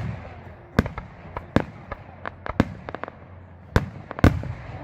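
Fireworks exploding in an irregular series of sharp bangs, some with a short crackle after them. The loudest bangs come about four seconds in.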